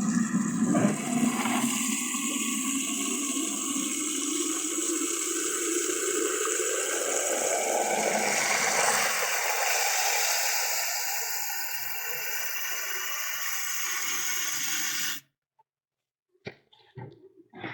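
Steady rush of running water that cuts off suddenly about fifteen seconds in, followed by a few short knocks.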